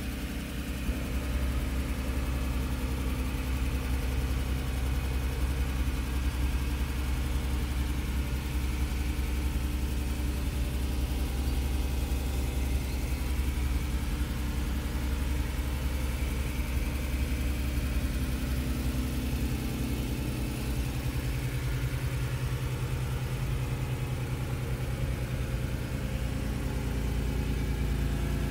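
1992 Honda NSX's 3.0-litre V6 idling steadily, heard from inside the cabin, its note shifting slightly a little past two-thirds of the way through.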